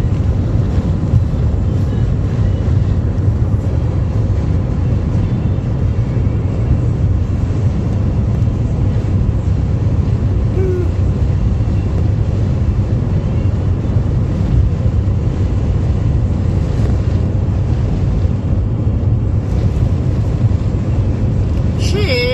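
Strong wind of a dust storm blowing: a steady, dense low rumble and rush that does not let up. A high, wavering whine starts right at the end.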